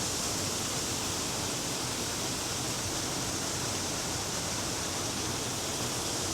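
Steady rush of water pouring over the remains of an old dam, a partly frozen waterfall.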